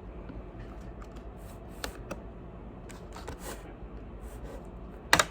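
Plastic laptop case being pried apart along its edges: scattered faint clicks and scrapes of the tool and case clips, then a sharp, louder snap near the end.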